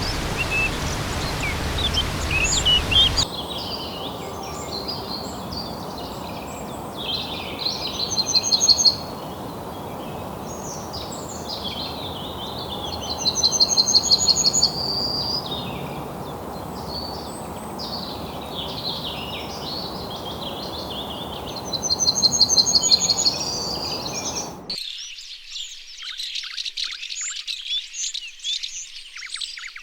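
Amazon rainforest birds calling over a steady background hiss, with a loud, rapid trill of evenly repeated notes coming three times. The background changes abruptly twice, and the last few seconds hold a dense chorus of short chirps.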